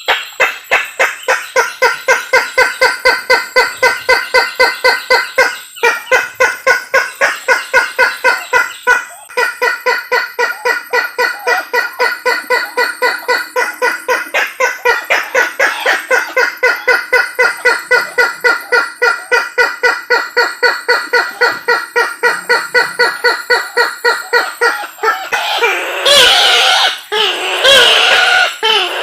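Isabelline bush-hen (kareo sulawesi) call played as a bird lure: a long series of quick repeated notes, about four a second, with two short breaks. Near the end the notes turn into louder, more varied calls.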